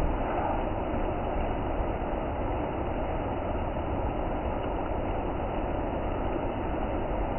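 Waterfall, its water rushing steadily.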